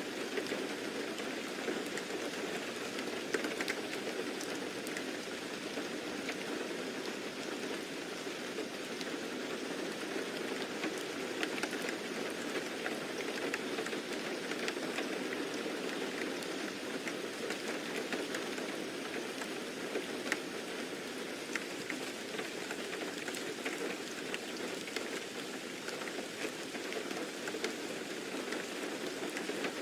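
Steady rain falling, with scattered single drops ticking through it.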